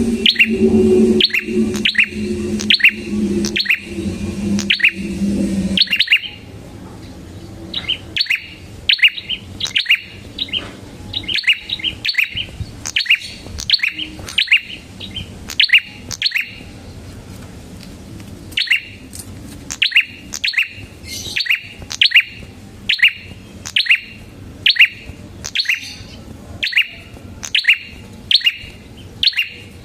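Prenjak (prinia) songbird singing a long run of sharp, repeated chirps, about two a second, with brief faster clusters. A low steady hum sits under the song for the first six seconds, then drops away.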